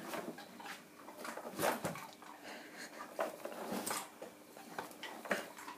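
A horse chewing feed cubes, with irregular crunches and small mouth and lip noises.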